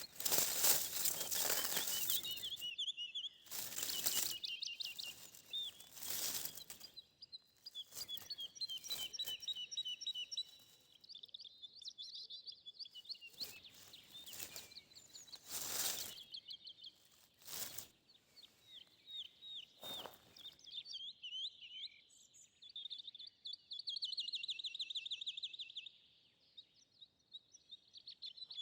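Small birds singing in rapid high trills and chirps, with short rustling or crunching noises now and then in the first part.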